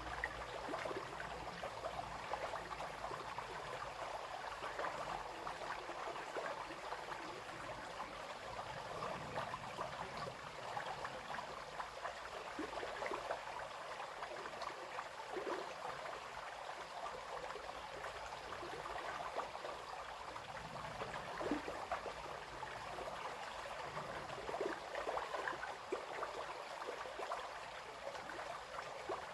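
Small brook flowing and babbling over stones, a steady splashing trickle.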